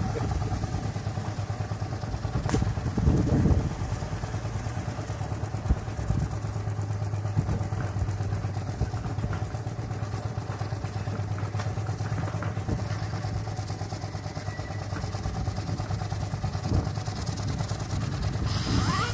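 4-inch scale Burrell steam traction engine running along the road, its exhaust beating in a rapid, even rhythm over a steady low hum, with an occasional louder knock.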